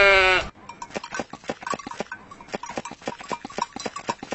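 A sheep's bleat ending about half a second in, followed by a fast, irregular run of small clicks and ticks.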